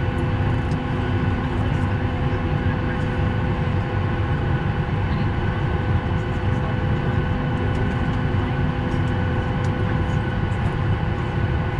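Steady cabin noise inside a Boeing 737 on the ground: a constant low rumble with several steady whining tones from the aircraft's air and engine systems.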